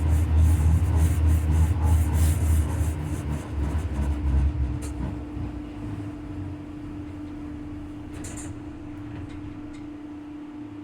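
Leoliner NGT6 tram running on rails, with a rapid rhythmic knocking from a wheel flat over a heavy low rumble; after about four seconds the rumble and knocking die away, leaving a steady hum and a few isolated clicks.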